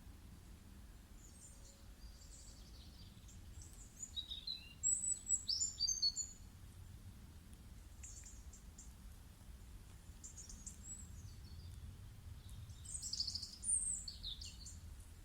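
Songbirds singing: scattered groups of high chirps and short gliding whistles, loudest about four to six seconds in and again near the end, over a faint steady low rumble.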